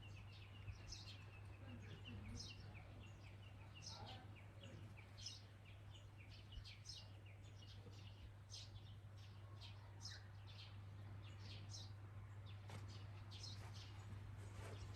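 Faint birds chirping: many short, high notes that sweep downward, a few each second, over a steady low hum.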